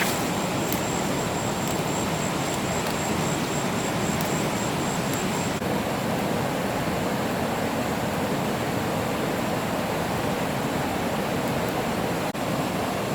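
Steady rush of a waterfall, an even roar of falling water, with a faint high pulsing whine over it for the first five seconds or so.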